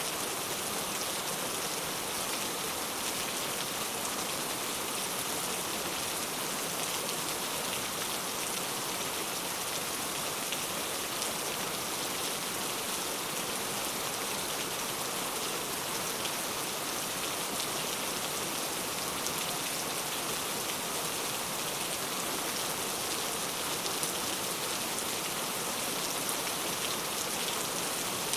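Heavy rain falling steadily: a dense, even hiss of drops with no let-up and little low rumble.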